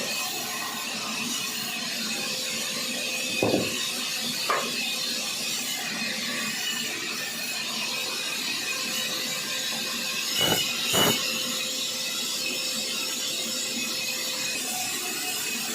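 Sawmill saw running with a steady whine and hiss, broken by short knocks about three and a half seconds in, a second later, and twice more around ten to eleven seconds in.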